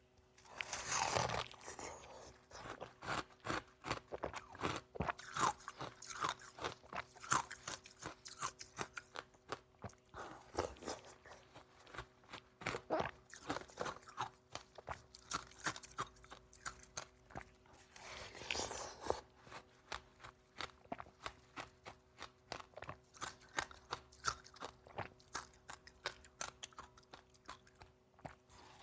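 Close-up crunching and chewing of dry, powdery freezer-frost ice: a fast run of small crisp crunches, with two longer, louder bites about a second in and again near the middle.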